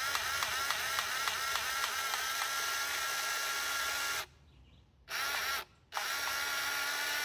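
Cordless grease gun motor running, pumping grease into an excavator's track adjuster, with a quick pumping pulse about four times a second at first. It then runs steady, cuts off about four seconds in, gives a short burst, and starts again near the end; the cartridge is running out of grease.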